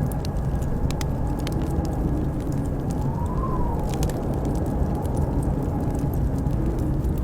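Wood fire crackling with sharp pops scattered throughout, over a steady low roar of blizzard wind. About three seconds in, a whistling howl of wind rises and falls.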